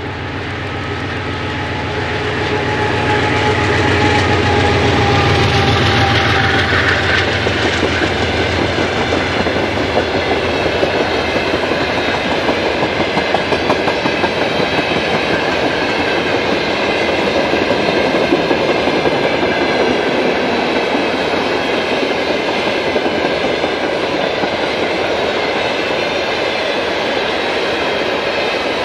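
GE C36-7i diesel-electric locomotive passing, its engine loudest about five seconds in. A long string of freight wagons follows, rolling by with a steady clickety-clack of wheels over the rail joints.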